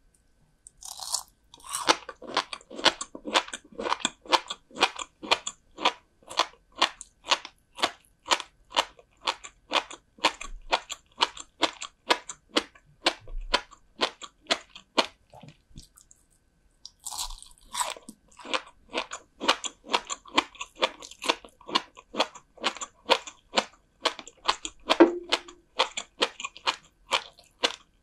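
Close-miked eating of salted herring roe (kazunoko): a bite, then steady crisp crunching chews about three a second. After a short pause past the middle comes a second bite and more crunchy chewing.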